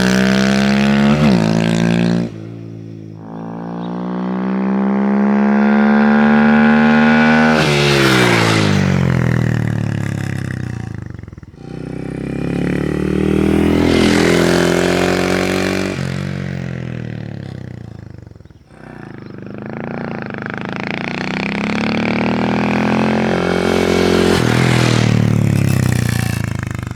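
2023 Honda Grom's single-cylinder engine through a ZOOM high-mount exhaust with its baffle fitted, riding past several times. Each pass swells in loudness and the exhaust note falls in pitch as the bike goes by, then fades. A loud stretch at the start cuts off about two seconds in.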